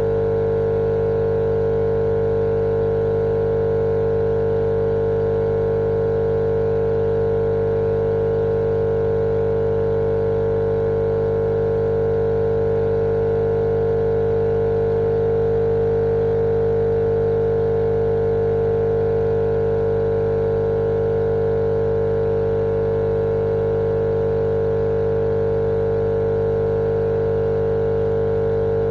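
Steady, unchanging machine-like hum with one strong mid-pitched tone and a light hiss over it, played as a soothing sleep noise for babies.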